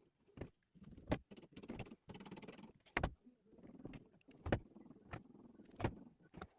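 Irregular sharp knocks and clatter of objects being handled, about five in all, with rustling between them.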